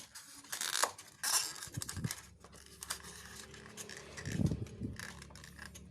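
Cut styrofoam pieces being pushed into a motorcycle battery compartment around a lithium battery: a few short scraping, rustling rubs and light clicks, then a duller bump about four and a half seconds in.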